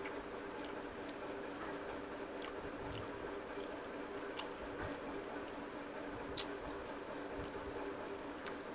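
Close-miked chewing and mouth sounds of a person eating rice and curry by hand, with short wet clicks and smacks scattered through. A steady low hum runs underneath.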